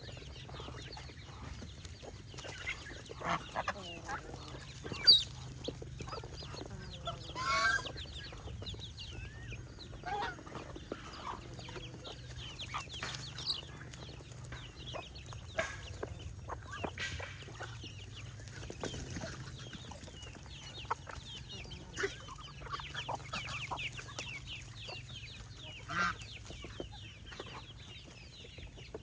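Poultry calling: many short high peeps with clucking, and a few louder calls, a sharp one about five seconds in and another near the end, over a low steady hum.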